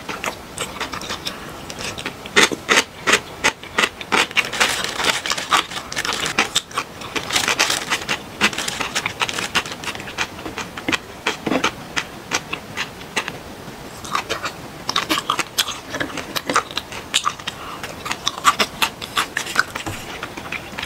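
Close-miked chewing: many rapid crunches and wet clicks as sliced fermented skate (hongeo) is eaten, with chopsticks tapping on the plate and bowl, easing off briefly about two-thirds through.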